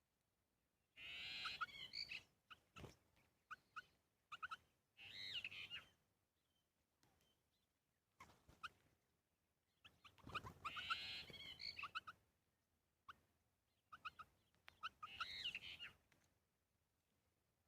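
Bird calls: bursts of high, warbling calls with short sharp chirps between them, broken by silent gaps, the same sequence heard twice.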